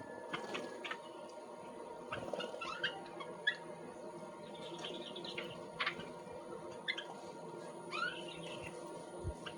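Small birds chirping and squeaking in short, scattered calls, some rising in pitch, with a few sharp clicks among them.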